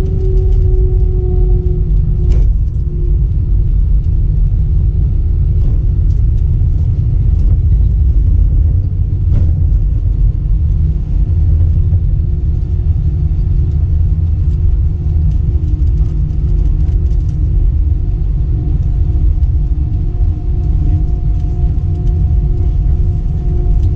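Airbus A320 cabin noise: a loud, steady low rumble under a steady engine hum that dips slightly in pitch in the first two seconds, then holds. Two short sharp clicks, one about two seconds in and one near ten seconds.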